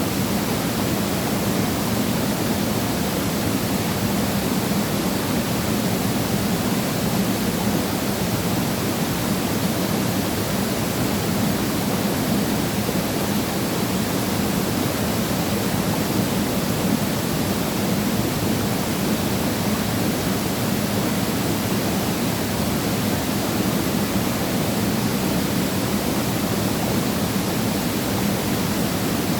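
A waterfall's water falling and splashing in a steady, unbroken rush.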